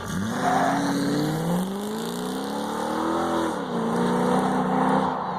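Toyota Tundra engine accelerating through an exhaust with long tube headers, high-flow cats, a MagnaFlow X-pipe and short true duals dumped out the side. The pitch climbs for about three seconds, then drops and holds steady, with a slightly blatty tone.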